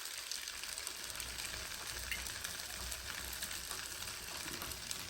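Noodles, egg and tomato frying in oil in a hot pan: a steady sizzle.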